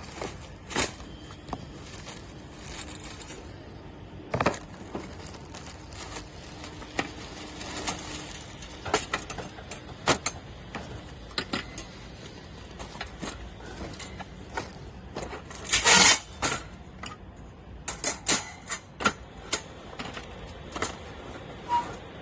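Stainless steel parts of a folding camping grill-stove clicking, knocking and clinking as they are handled, in irregular separate strokes, with a louder run of clatter about sixteen seconds in.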